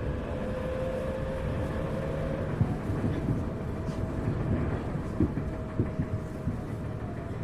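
Tokyu 1000 series electric train running, heard from inside the motor car: a steady low rumble with a faint whine that rises slightly and fades about two and a half seconds in. A few clacks of the wheels over rail joints can be heard.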